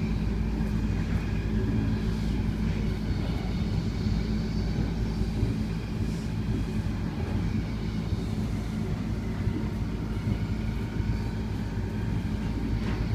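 Steady running noise inside a moving passenger train: a constant low rumble with a steady hum.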